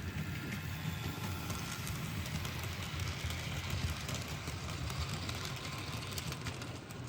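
Model trains running on a layout: a steady rumble of motors and wheels on the track, with many small clicks from the wheels over rail joints.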